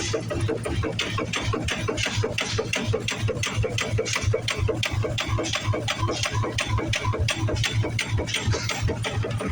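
Antique engine running at a steady speed, its beats coming evenly and rapidly with a mechanical clatter over a low hum.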